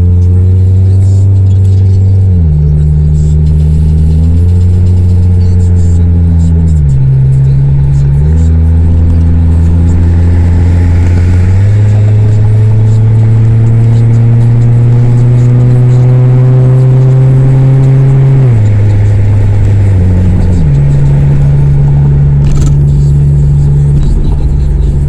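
Honda CR-V with the resonator and muffler removed, its exhaust giving a loud, deep drone while driving. The pitch holds, steps to new levels every few seconds, and climbs slowly for several seconds under acceleration before dropping back.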